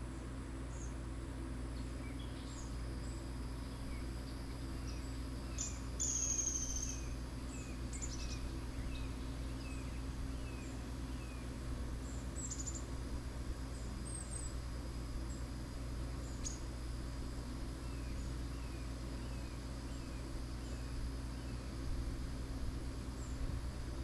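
Small birds calling: runs of short falling chirps at about three a second, with scattered higher chips and a brief high whistle about six seconds in, over a steady low rumble.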